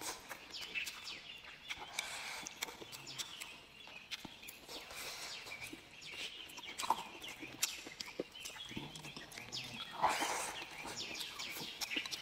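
Close-miked chewing and lip-smacking as chunks of spicy braised meat are bitten and eaten, with many short wet clicks. Birds call briefly in the background a few times.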